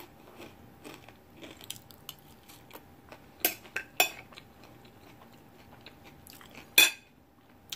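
Close-up chewing and biting of a tostada salad with lettuce and crisp tortilla: many small wet crunches, with a few louder sharp clicks or crunches, the loudest near the end.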